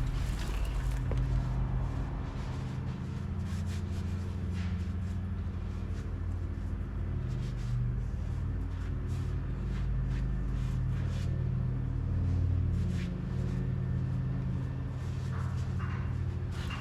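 An engine running steadily with a low, even drone, with scattered light metallic clicks of tools over it.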